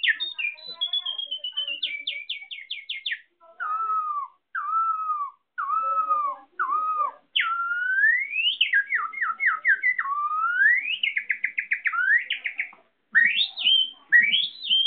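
A person whistling imitations of bird song: fast trills, then four falling slurred notes about a second apart, then long rising swoops broken into trills, and short rising chirps near the end.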